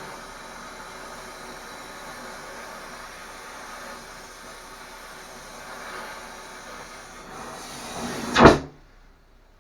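Steady hissing, crackling noise of welding work on a steel heating-main pipe. About eight and a half seconds in, a loud sharp burst ends it and the noise stops abruptly.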